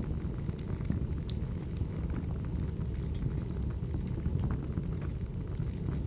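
Wood fire burning: a steady low rumble of flames with scattered sharp crackles and pops from the burning firewood, a couple of them louder than the rest.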